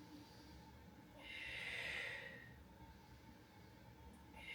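A woman breathing audibly while exercising: one long breath a little over a second in, and another starting near the end.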